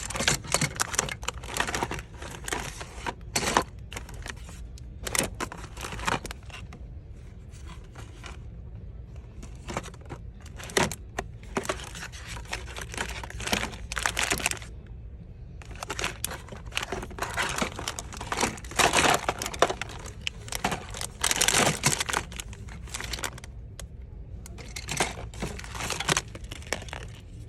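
Irregular crinkling and rustling handling noise, broken by many short sharp clicks and knocks, with quieter stretches in between.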